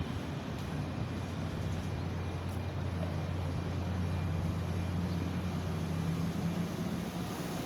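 Steady low motor drone, like an engine running, with a second higher hum that grows stronger about three seconds in.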